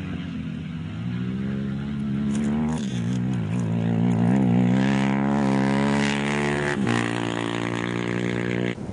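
A rally bike's engine revving hard, growing louder as it approaches. Its pitch wavers up and down with the throttle, then holds high before the sound cuts off abruptly near the end.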